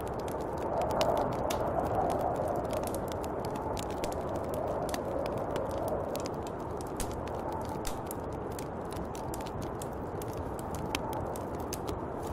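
Snowstorm wind blowing in slow rising and falling gusts, with many small sharp crackles scattered throughout.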